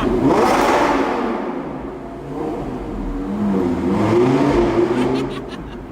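Audi R8 V10 Plus's V10 engine through its aftermarket Capristo exhaust, accelerating hard. It revs up loudly at the start, eases off, then climbs again in steps about two and a half seconds in before dying away near the end.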